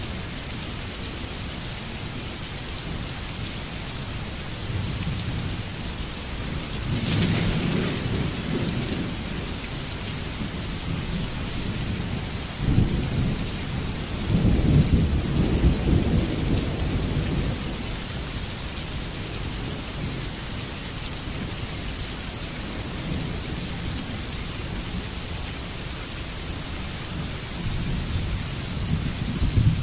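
Heavy rain falling steadily, with deep thunder rumbling twice, the second roll, about halfway through, the louder and longer.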